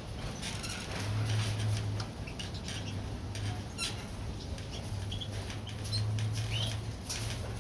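Caged finches and canaries fluttering and hopping about, with a few brief high chirps, over a low hum that comes and goes.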